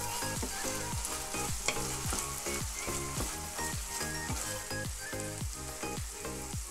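Minced chicken and onion sizzling in oil in a hot pan as they are stir-fried and turned with a wooden spatula. The frying hiss is steady, broken by small clicks and scrapes.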